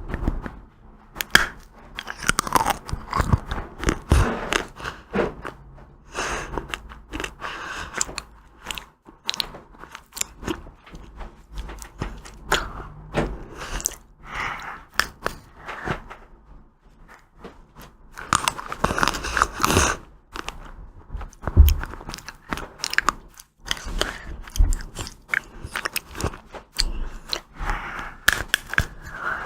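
Close-miked biting and chewing of ice cream, with many irregular crunches and crackles.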